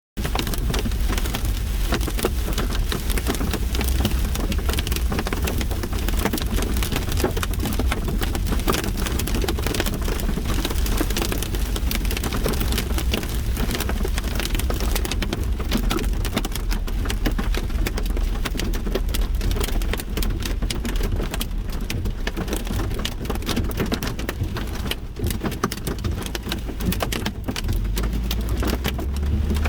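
Heavy storm downpour with hail pelting down: a dense, rapid patter of impacts over a steady low rumble.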